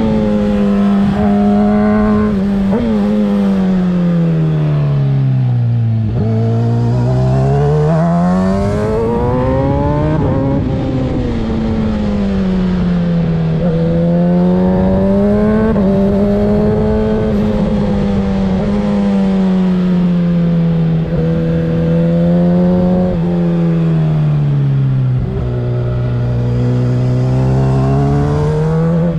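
Kawasaki ZX-6R's 636 cc inline-four running through a Graves aftermarket exhaust, its revs rising and falling over and over: long drops in pitch as it slows off the throttle, then climbing again under acceleration.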